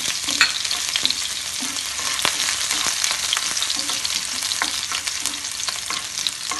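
Chopped garlic and green chillies sizzling steadily in hot oil in a non-stick pan, stirred with a wooden spatula that clicks and scrapes against the pan now and then.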